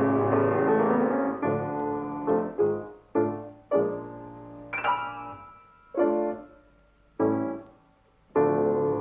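Piano music: chords struck one after another, each left to ring and fade, with longer pauses between them from about the middle until a loud chord near the end.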